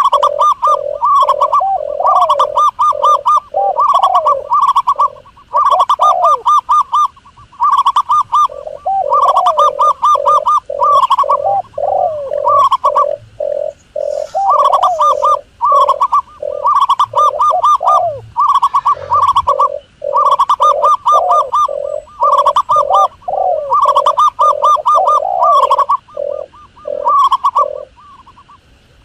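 Wild doves cooing: fast rolling, pulsed coo phrases repeated over and over with short gaps, a higher trilled line over lower sliding notes, as used in a hunting lure call.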